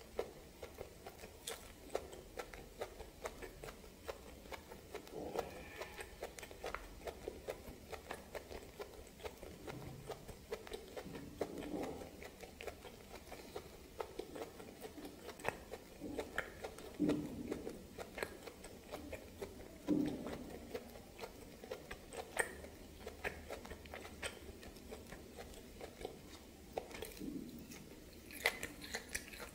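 Close-miked chewing of steamed snake: a steady run of small wet mouth clicks and smacks, with a few louder, deeper mouth sounds scattered through.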